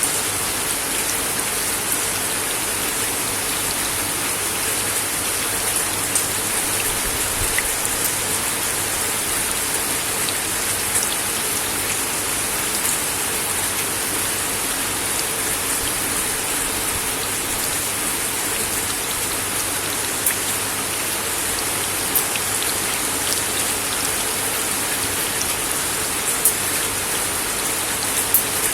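Steady rain falling on a wooden deck, an even patter with occasional sharper ticks of single drops.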